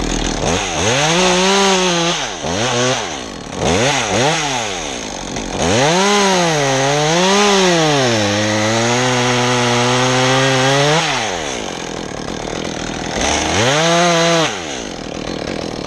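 Chainsaw cutting a notch into a pine, revving up in several bursts with its pitch sagging under load as it bites into the wood. The longest cut runs about six seconds in the middle, with a last short burst near the end.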